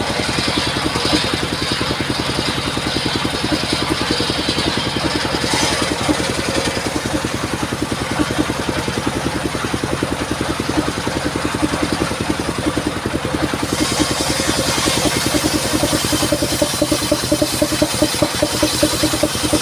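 Engine of a mobile circular sawmill running steadily with a rapid, even firing beat; a brighter hiss joins it about two-thirds of the way through.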